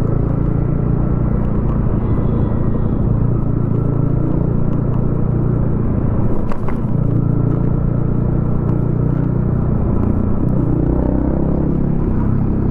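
Yamaha XSR155's single-cylinder 155 cc engine running steadily through a DIY exhaust while riding, with a short sharp click about six and a half seconds in.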